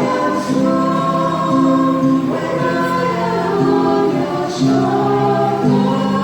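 Choir singing in harmony, several voices holding long notes that move to a new chord about every second.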